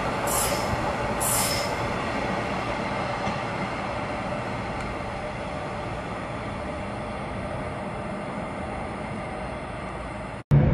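Electric passenger train running on the track into a tunnel, its wheels rumbling, with two brief high wheel squeals in the first two seconds. The rumble fades slowly as the train draws away.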